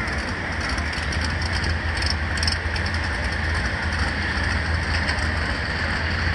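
Drag racing car's engine idling with a steady, deep rumble.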